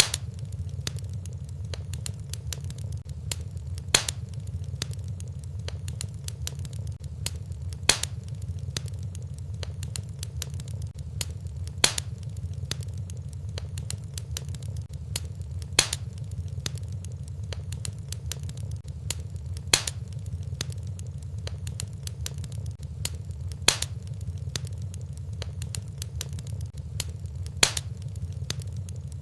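Wood fire in a fireplace crackling over a low steady rumble, with a sharper, louder pop about every four seconds.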